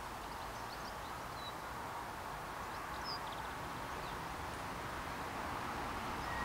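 Steady background noise with a few faint, short high chirps.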